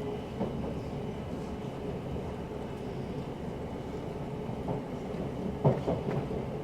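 Steady rumble of an electric passenger train running along the line, with a few sharp knocks, the loudest about five and a half seconds in.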